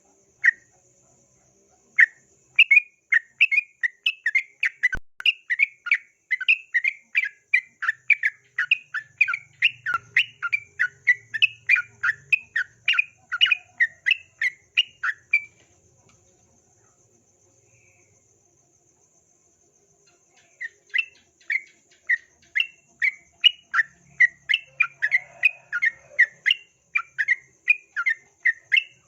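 Yellow-vented bulbul (trucukan) singing a fast run of short repeated chirping notes, about three a second. The song breaks off for about five seconds midway, then starts again. A faint steady high-pitched drone runs underneath.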